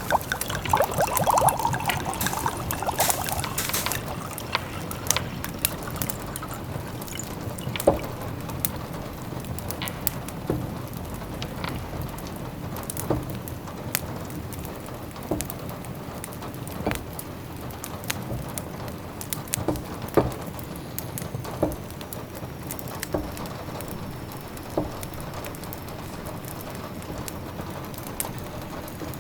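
Steady rain pattering, with a wood fire crackling in a fireplace: scattered single pops and snaps every second or so. For the first few seconds a pot of food bubbles as it simmers.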